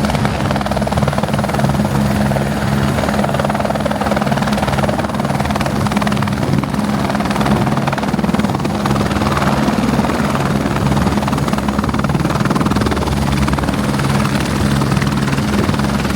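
Helicopter in flight, its rotor and engine making a loud, steady drone with a constant low hum.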